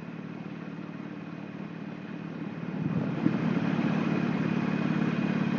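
Motorcycle engine running under way, heard from inside the rider's helmet, a steady hum that grows louder about three seconds in.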